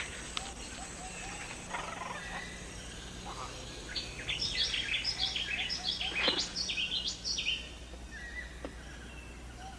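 Rainforest ambience with bird calls over a steady high hiss. About four seconds in, a rapid run of short, high chirps goes on for roughly three and a half seconds, then thins out.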